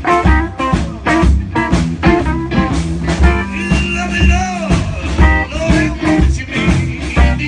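Live blues band playing, with a guitar carrying the lead over bass and drums on a steady beat.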